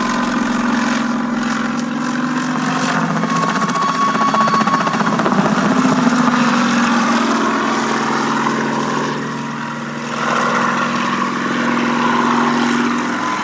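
Helicopter in flight: a steady engine drone with a high turbine whine and rapid rotor pulsing. It swells in loudness mid-way, dips briefly and then rises again as the helicopter manoeuvres.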